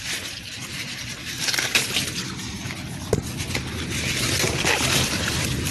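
Corn plants' leaves and husks rustling and crackling as they are handled and pushed through, with a few sharper snaps.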